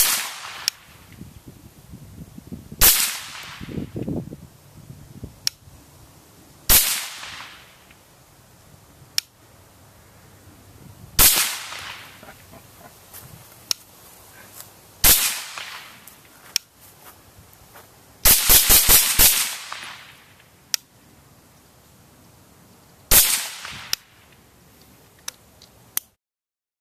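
Suppressed Stag Arms 5.56 AR-15 rifle with a Surefire FA556-212 suppressor firing single shots a few seconds apart, then a quick string of about six shots, then one more. Fainter sharp ticks come between the shots, and the sound cuts off abruptly just before the end.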